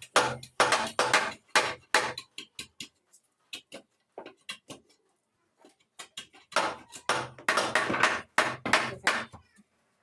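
Repeated hammer blows on wood, in two quick runs of about three strikes a second with a few scattered knocks between them.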